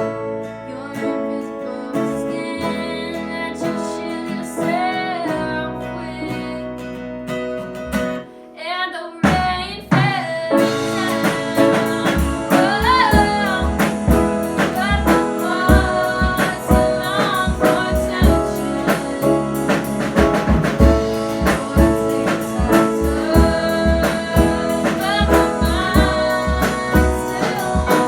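A band playing a song: singing over guitar, with a sparse opening that fills out about a third of the way through, when steady drum kit hits come in under the voice and guitar.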